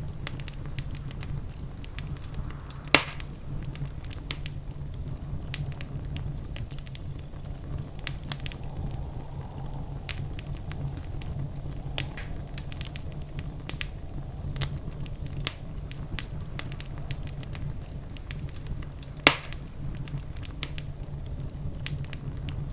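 Wood fire crackling in a fireplace: a steady low rumble under many small, irregular crackles, with two sharp louder pops, one about three seconds in and one late on.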